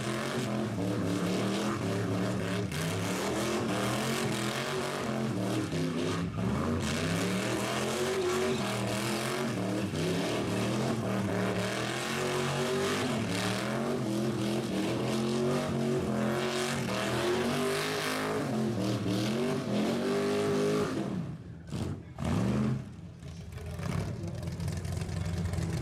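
Rat rod engine revved up and down over and over during a burnout, over a steady hiss. About 21 seconds in the revs drop away abruptly, then the engine settles to a lower, steady run.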